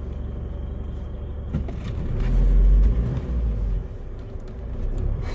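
Isuzu vehicle's engine idling, heard from inside the cab as a steady low hum. A louder deep swell rises in the middle and lasts about two seconds.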